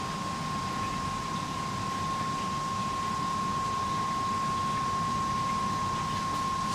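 Steady mechanical hum with a rush of air-like noise and a constant thin high whine throughout: the background drone of a large hangar.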